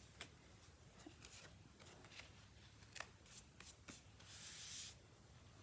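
Faint handling of a paper journal and cardstock die cuts: a few soft taps and clicks, then a brief rustle of paper sliding about four seconds in.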